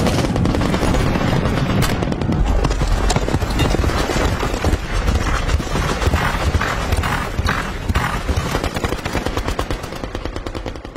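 Maxim machine gun firing a long, continuous stream of rapid shots, dying away in the last second or so.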